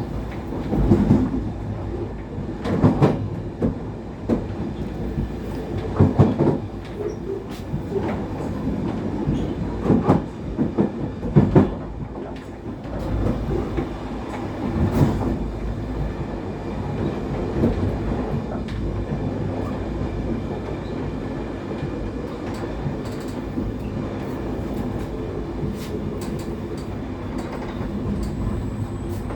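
Passenger train running, heard from inside the carriage: a steady low rumble of wheels on rails, with irregular knocks over the rail joints and switches during the first half that give way to a smoother, even rumble.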